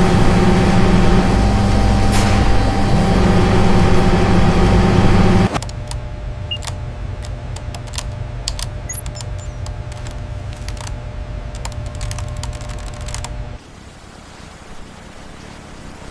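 Factory machinery hum, loud and steady with a few held tones, cutting to a quieter hum with scattered sharp clicks and clinks about five seconds in, then dropping to a low, even hiss near the end.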